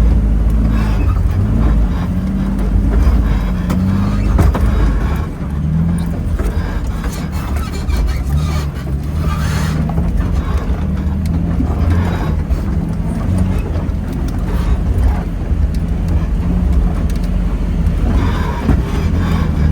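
Off-road vehicle's engine running at low speed while crawling a rough trail, heard from inside the cab, its pitch shifting a little with the throttle. Occasional knocks and rattles from the vehicle working over the terrain.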